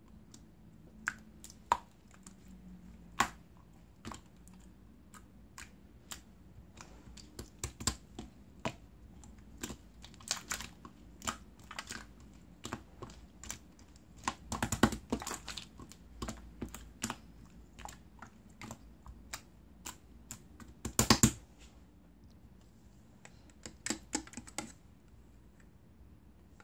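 Slime being squished and poked by hand, giving irregular sharp clicks and sticky pops, with denser crackling bursts about halfway through and again near the end.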